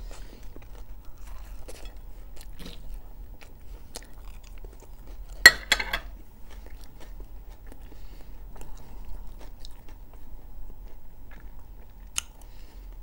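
Close-up mouth sounds of a person chewing fried liver. A sharp clink about five and a half seconds in and a smaller click near the end.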